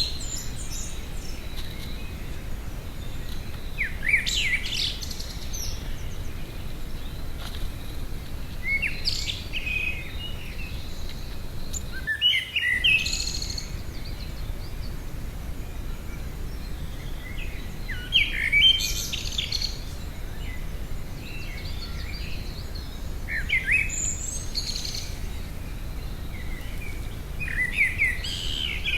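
Garden birds singing: short phrases of chirping song every few seconds, over a steady low background rumble.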